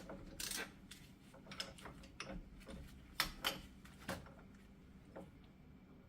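Scattered light clicks and knocks as a bearing puller and hand tools are repositioned against the wheel hub, the loudest a little after three seconds and around four seconds.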